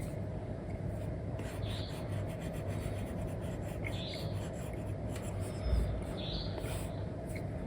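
Apple Pencil tip scratching across a paper-like matte screen film on an iPad as colouring strokes are drawn: short scratchy strokes about every two seconds with light taps between, over a steady low hiss.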